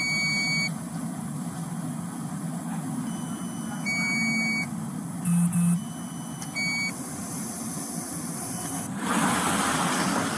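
A heavy vehicle's engine running steadily under short electronic beeps that alternate between two pitches, recurring every few seconds. Near the end comes a loud burst of hiss.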